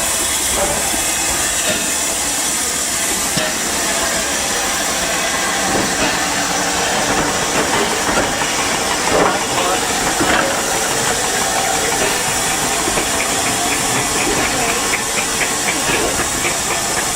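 Steam locomotive letting off a steady hiss of steam, with a quick regular ticking joining in during the second half.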